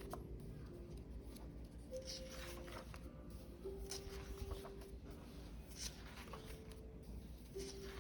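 Soft background music of slow held notes, with faint rustling and scraping of objects being handled.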